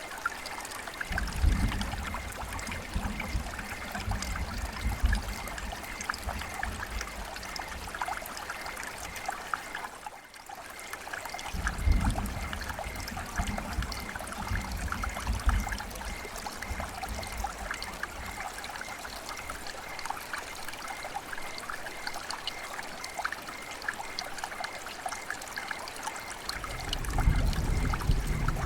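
River water flowing and trickling in a steady babble of small splashes, with a low rumble that comes and goes and a brief drop in level about ten seconds in.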